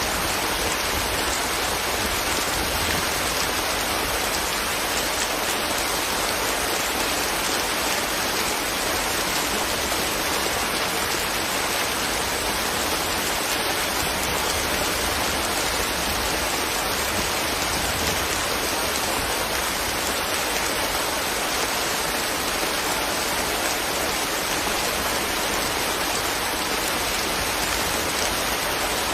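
Steady rain, an even hiss that holds at the same level throughout with no single drops, thunder or other events standing out.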